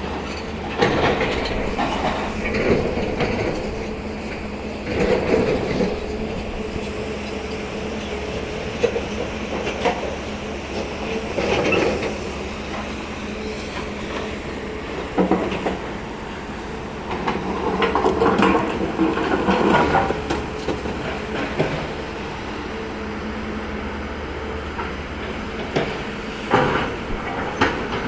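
Hyundai excavator's diesel engine running steadily, with repeated bursts of stones rattling and knocking as they are scooped and loaded, the loudest stretch about 17 to 20 seconds in.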